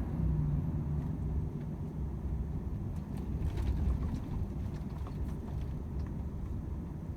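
Volvo FH 500 truck's 13-litre straight-six diesel running on the road: a steady low rumble with road noise, and a few faint ticks and rattles in the middle.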